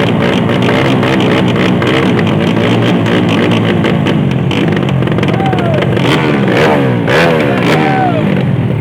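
Motorcycle engines revving hard, their pitch sweeping up several times in quick succession near the end, with background music mixed over them.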